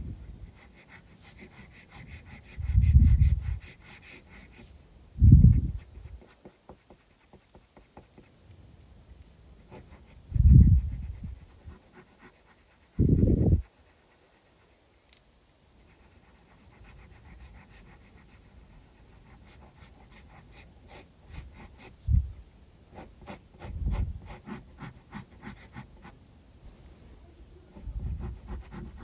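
Graphite pencil scratching and shading on sketchbook paper in quick short strokes, broken by several dull low thumps that are the loudest sounds.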